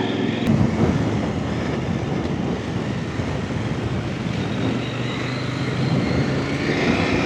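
Off-road motorcycle engine running at low revs over a rough trail, with a rising rev in the last couple of seconds as the bike picks up speed.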